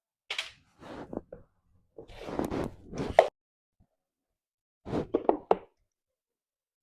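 Tools and metal parts of a brush cutter being handled during repair: clusters of scraping, knocks and sharp clicks, the loudest a sharp click about three seconds in and a quick run of clicks near the end.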